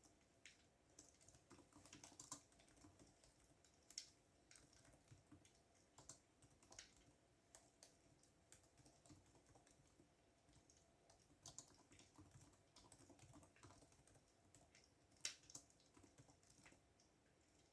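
Computer keyboard typing, faint and irregular: quick runs of key clicks with pauses, and a few louder keystrokes.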